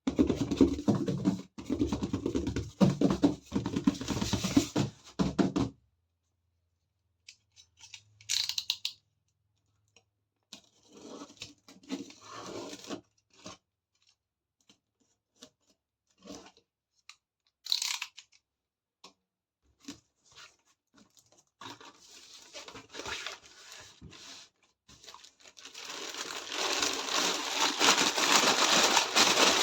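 Toy packaging being torn and crinkled open, in two dense stretches at the start and from about three-quarters of the way through. Scattered short clicks and rustles come in between.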